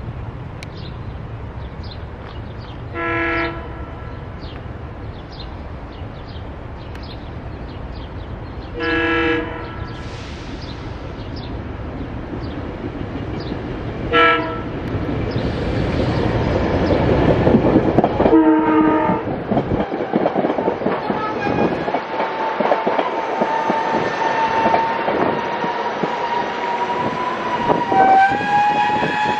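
SEPTA commuter train sounding its multi-tone horn four times, long, long, short, long (the standard grade-crossing warning), as it approaches with growing wheel-on-rail rumble. After the last blast a steady whine comes in and drops in pitch near the end as the train goes by.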